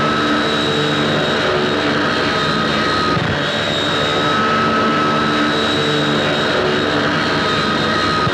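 Continuous drone of a small propeller aircraft's engine, with a steady high whine that breaks off briefly about three seconds in and then returns.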